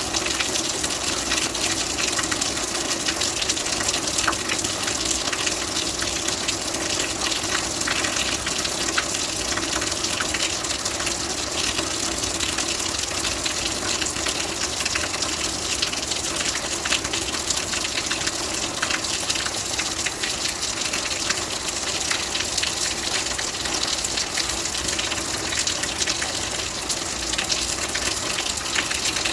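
Steady rain falling, an even hiss of water with fine patter of drops throughout.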